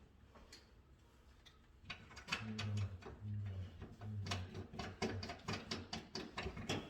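A small electric motor running in repeated short bursts, each lasting under half a second, starting about two seconds in, among many sharp clicks and knocks from parts being handled.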